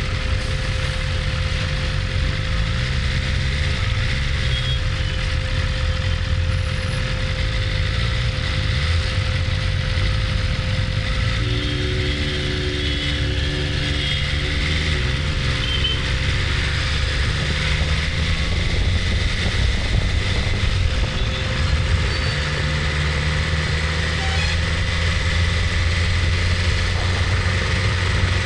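BMW S1000RR inline-four engine running at low revs in traffic, its pitch stepping up and down in places. A few short two-note beeps come in around the middle.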